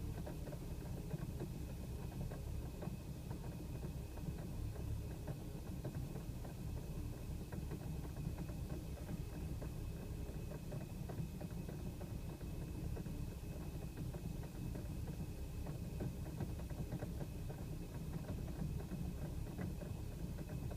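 BMW E90's engine idling roughly, with an uneven, juddering beat and a faint steady high tone over it. The owner takes the unevenness for tiny idle misfires that remain after a fuel-system cleaner treatment.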